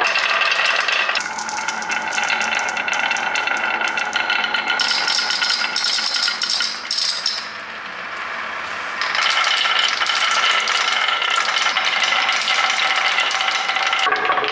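Marbles rolling and clattering along a marble-run track, a continuous rattle of quick clicks with a ringing tone. It eases off around 8 seconds in and comes back louder about a second later.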